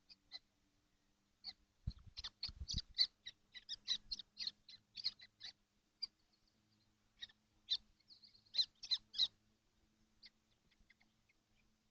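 Young common kestrels calling in a nest box: a run of short, high, sharp calls, thickest from about two to five seconds in and again near the nine-second mark, with one longer drawn call just before it. A few low thuds from the chicks shifting on the box floor come about two to three seconds in, over a faint steady hum.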